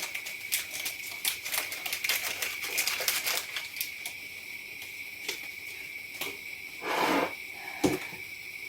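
Spoon clicking and tapping rapidly in a bowl as curd filling with egg, sugar and vanillin is worked. A louder scrape comes about seven seconds in.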